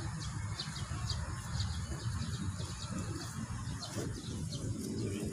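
Small birds chirping, short high chirps about two or three a second, over a steady low outdoor rumble.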